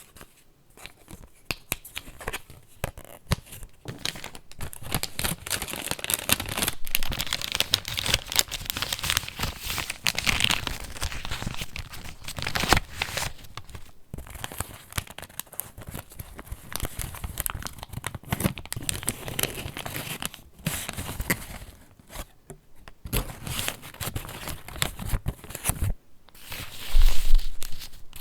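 Paper pages of a handmade junk journal being handled and turned, with a continuous crinkling and rustling. It breaks off in short lulls and ends with a louder handling burst.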